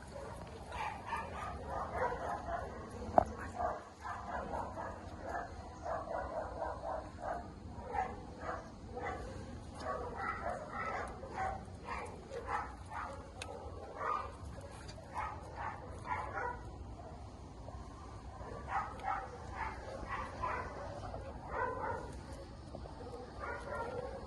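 A dog yipping and whimpering in quick, repeated short calls, easing off briefly about two-thirds of the way through. There is one sharp click about three seconds in.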